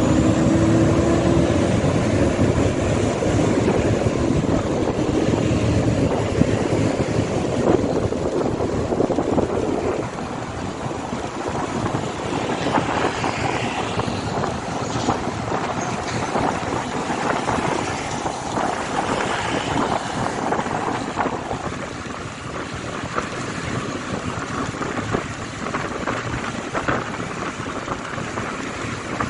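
Motorcycle running while being ridden, with wind and road noise over the microphone. The engine tone rises briefly near the start, and the sound drops noticeably in loudness about ten seconds in.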